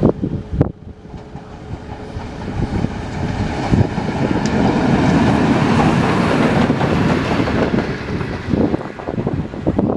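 Class 03 Pacific steam locomotive 03 2155 running past on the track with its wheels clattering. It grows louder to a peak about halfway through, then fades as it moves away.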